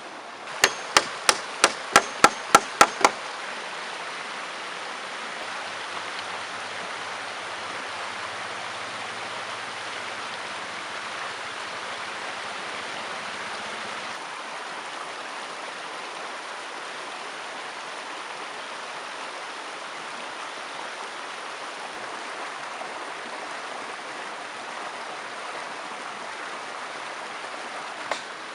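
River water flowing steadily with an even rushing. For the first three seconds a quick run of sharp strikes on wood, about four a second, sounds over it and then stops; the strikes start again right at the end.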